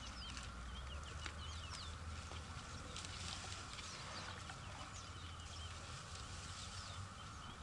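Birds chirping and calling in many short, quick whistles over a steady low rumble.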